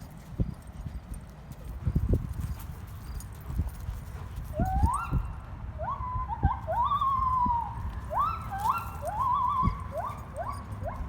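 An animal calling again and again: short squealing calls that each rise quickly in pitch and then hold level. They begin about four seconds in and come in a rapid series to the end, over scattered dull knocks.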